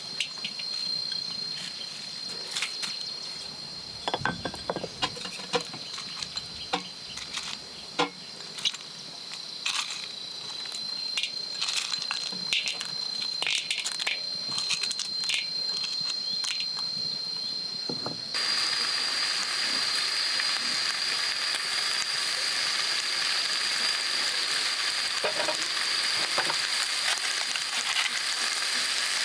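A steady high-pitched insect drone with scattered small clicks and knocks of handling. About two-thirds of the way through it cuts abruptly to a louder, even sizzling hiss, as of food frying.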